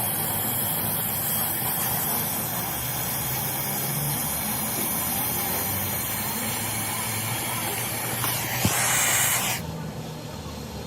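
A loud, steady spraying hiss of a jet of compressed air or spray from a workshop nozzle, over a low hum. It gets louder briefly with a click near the end, then cuts off suddenly.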